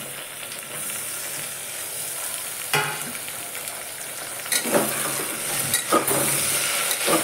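Chopped tomatoes sizzling in hot oil with fried onions in an aluminium pressure cooker, a metal spoon knocking and scraping against the pot several times in the second half as they are stirred.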